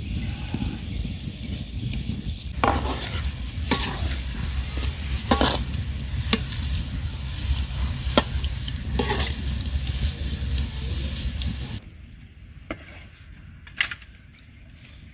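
Potato fries sizzling in hot oil, with a utensil clicking and scraping against the pan as they are stirred. The sound drops noticeably, and the low rumble under it stops, near the end.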